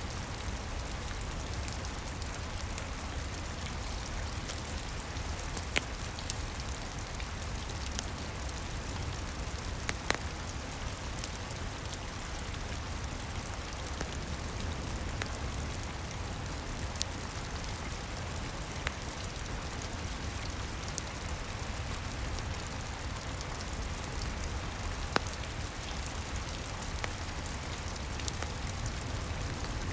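Steady rain falling on a roof, with a few sharp crackles from a wood fire in a fireplace.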